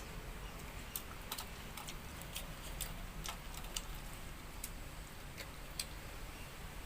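A person eating: wet mouth clicks and smacks while chewing, about a dozen short sharp clicks at an uneven pace.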